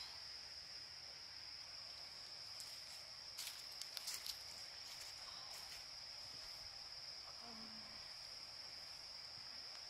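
Insects shrilling in one steady high-pitched tone, with a short cluster of sharp clicks about three and a half seconds in.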